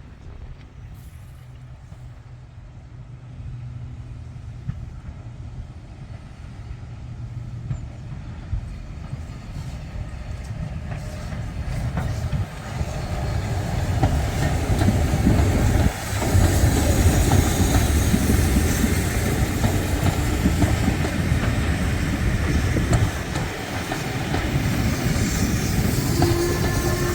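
A train on a heritage railway line approaching, growing steadily louder over about fifteen seconds, then running past close by and loud.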